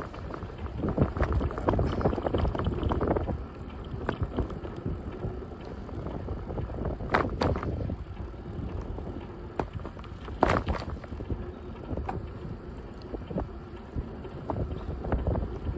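Wind buffeting the microphone of a camera carried on a moving bicycle, a gusting low rumble with the noise of the ride underneath. Two short sharp knocks stand out, about seven and ten seconds in.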